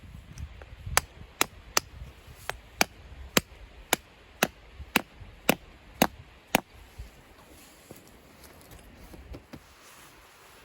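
A series of about fourteen sharp taps, roughly two a second and slightly uneven, that stop after about six and a half seconds.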